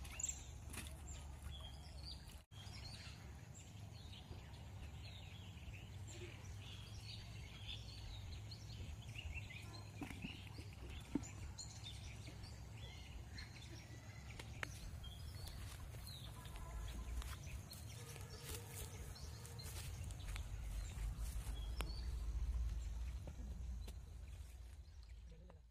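Many short bird chirps and calls over a low, steady rumble. The chirps are thickest in the first half and the rumble grows louder in the second half.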